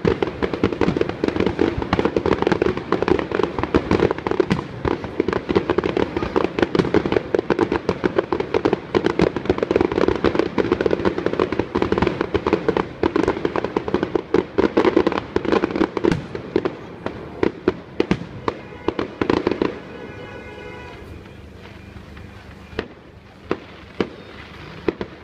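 Fireworks display: a dense barrage of rapid bangs and crackling that thins out about two-thirds of the way through to scattered single bangs.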